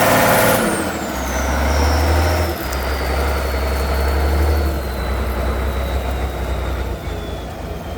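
Heavy off-road truck engine running loud, then dropping back under a second in to a low, steady running note, with a thin high whine falling slowly in pitch over the next several seconds.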